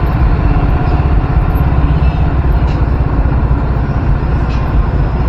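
Loud, steady wind noise buffeting a microphone wrapped in electrical tape: a deep rumbling that the tape has not cured.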